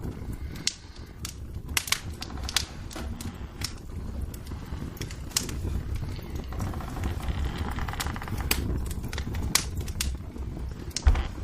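Wood fire in a fireplace crackling, with irregular sharp pops over a steady low rumble of the burning.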